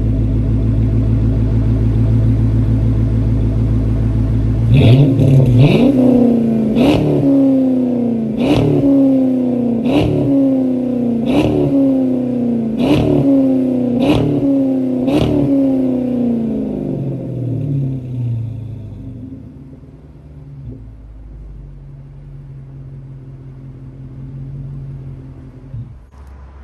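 A 2006 Dodge Charger R/T's 5.7-litre Hemi V8 through a muffler-deleted exhaust, with aftermarket resonators and the catalytic converters still on. It idles steadily and loudly, then is blipped about nine times in quick succession, each rev rising sharply and falling back. It then settles back to a quieter idle.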